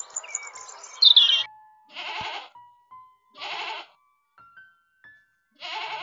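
A European robin singing a high song phrase that stops about a second and a half in, then a goat bleating three times, each bleat about half a second long. Soft background music notes hold between the bleats.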